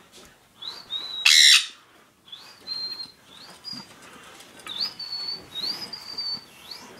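A pet bird calling: about six short, high chirps, each sliding up and then holding its pitch, with one louder, noisier burst about a second and a half in.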